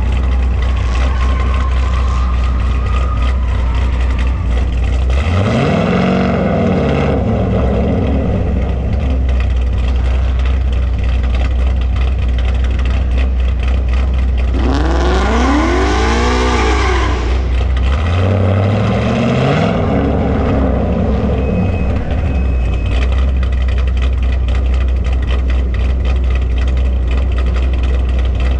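V8 muscle car engine idling loudly and steadily, revved three times: briefly about five seconds in, a bigger rev that climbs and falls back about fifteen seconds in, and another short one soon after.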